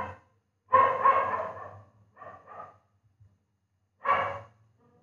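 A dog barking several times in short, separate barks with silent gaps between them.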